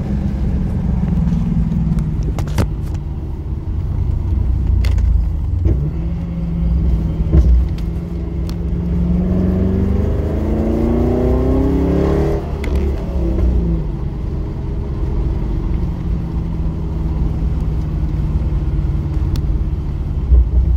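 Pontiac G8 GT's L76 6.0-litre V8 running at around 2,200–2,800 rpm, a steady low drone. Around the middle a rising whine climbs for a few seconds and then drops away, and a few sharp clicks sound along the way.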